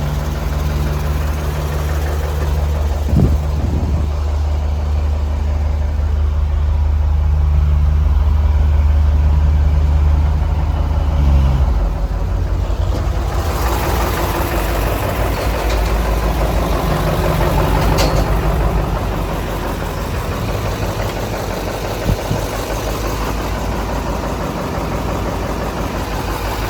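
Mercedes-Benz 2628 K tipper truck's V8 diesel engine running at idle, steady and even at first. From about halfway it turns rougher and noisier, with a short knock early on and another near the end.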